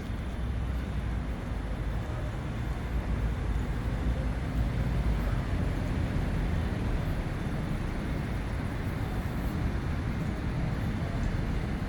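Steady road traffic noise of cars on a city street, a constant low rumble with no distinct events standing out.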